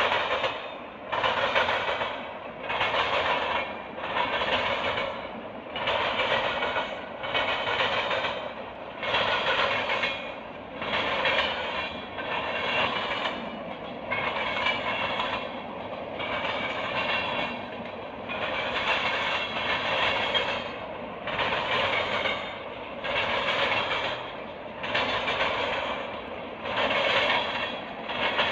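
A passing train's cars rolling by, their wheels clattering over the rail joints in an even rhythm, one pulse of noise roughly every second and a third as each car goes past.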